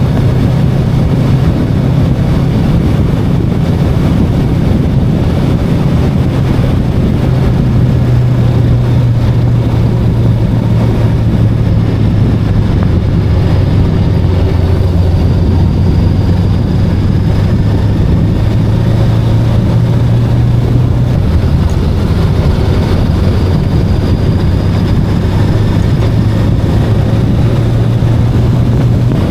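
VOGE 525DSX motorcycle's parallel-twin engine running steadily at cruising speed, a constant low drone mixed with wind and road noise. Its note drops slightly about two-thirds of the way through.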